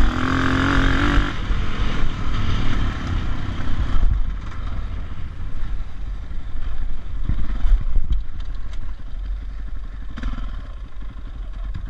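Dirt bike engine revving hard for about the first second, then running at lower revs over the trail, with a few sharp knocks and clatters later on.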